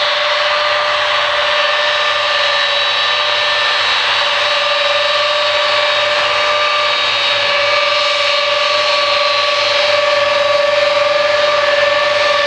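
Lockheed C-5A Galaxy's General Electric TF39 turbofan engines running with a steady whine of several held tones over a rushing noise, growing a little louder near the end.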